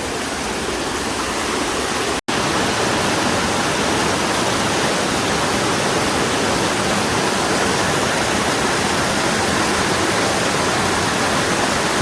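Waterfall rushing steadily, a dense even roar of falling water. A brief drop-out about two seconds in, after which it is a little louder.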